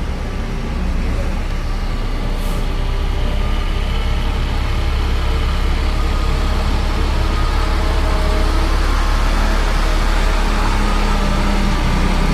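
Cement mixer truck's diesel engine running with a heavy low rumble, its pitch rising slowly over several seconds.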